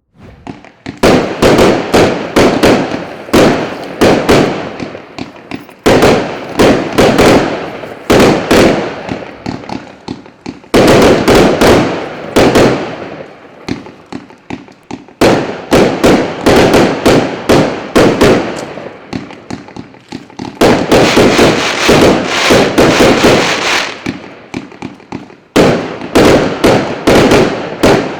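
A 130-shot, 0.8-inch consumer firework battery (cake) firing: loud, sharp bangs several times a second, in rapid clusters with short gaps between them. The bangs start about a second in.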